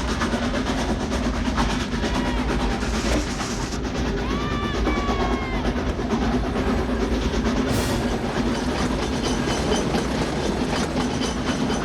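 Steam locomotive running at speed, a steady loud rush of wheel and engine noise, mixed with the film's music. A brief high pitched tone sounds about four seconds in.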